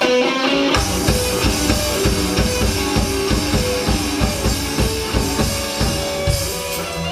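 Live band starting a dance-rock song: a melodic line begins abruptly, then the drum kit and bass come in about half a second later with a steady, even beat.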